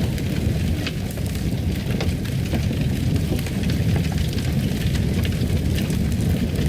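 Fire crackling in a fireplace: a steady low rumble of burning with many scattered sharp pops and crackles.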